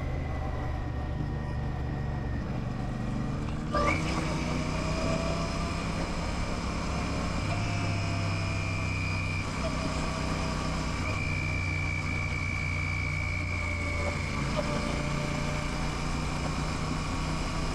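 Royal Enfield Classic 650's parallel-twin engine running on the move, its note stepping up and down a few times with the throttle. A short sharp sound comes about four seconds in.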